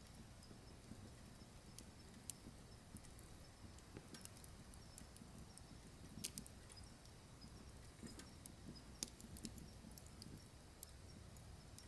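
Wood fire crackling in a wood-burning stove: faint irregular snaps and pops over a low rumble, with two louder pops about six and nine seconds in.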